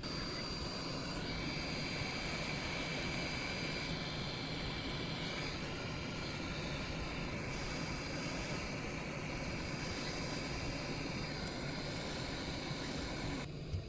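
A small electric blower running steadily: an even rush of air with a thin high whine. It switches on at once and cuts off shortly before the end.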